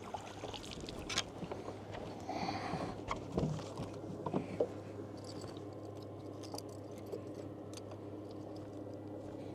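Water sloshing and pouring aboard a fishing boat, with scattered knocks and clicks of handling, over a steady low hum.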